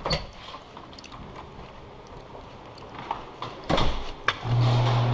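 A few scattered clicks and knocks. About four and a half seconds in, a loud, steady, low-pitched vehicle tone starts and holds without wavering.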